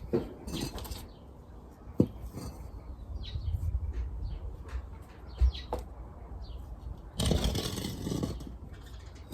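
Plant pots being handled, with a few light knocks and a rustle about seven seconds in, while small birds chirp in the background.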